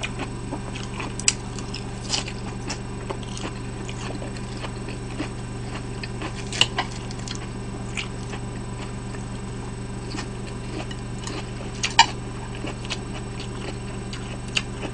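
A person chewing food close to the microphone, with a few sharp clicks of chopsticks against a plate, over a steady low hum.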